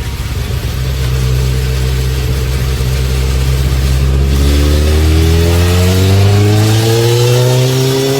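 Motorcycle engine running on a chassis dynamometer, steady at first, then the revs climb smoothly and continuously from about halfway through, as in a dyno pull through a gear.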